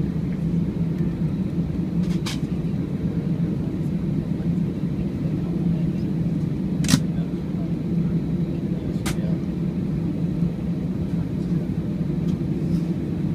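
Steady low drone inside the cabin of an Airbus A319 airliner on the ground, from its running engines and air systems. Three short clicks sound about 2, 7 and 9 seconds in.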